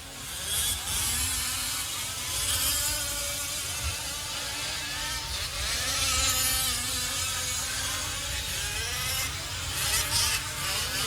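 Several 1/5-scale RC off-road trucks racing, their small two-stroke gas engines buzzing and revving up and down as they go round the track.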